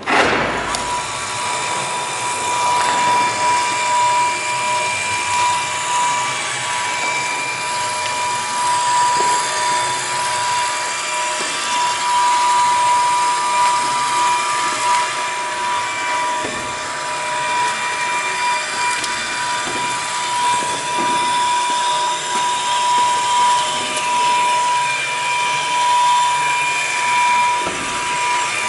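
A small electric motor running continuously with a steady high whine, its loudness wavering slightly, typical of a power tool in use.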